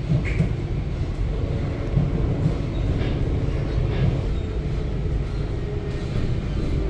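Metrorail electric commuter train running: a steady low rumble with a few faint clanks from the wheels and carriages.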